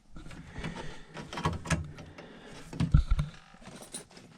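Clicks and knocks of a Trane furnace control board and its plug-in personality module being handled, with a louder knock about three seconds in.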